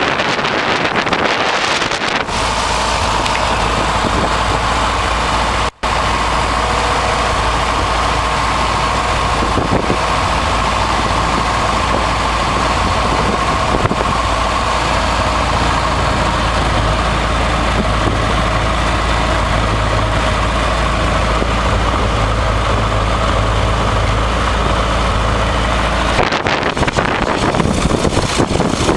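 A motor starts about two seconds in and runs steadily at idle, with a constant low hum. It cuts out a few seconds before the end, leaving wind on the microphone.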